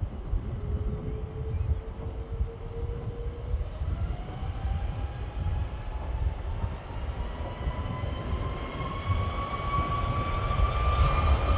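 Jet engines of an RAF Voyager (Airbus A330 tanker-transport) with a whine that rises steadily in pitch and grows louder. Wind rumbles on the microphone throughout.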